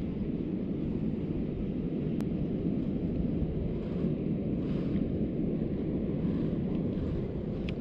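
Steady low rumbling wind noise buffeting the microphone outdoors.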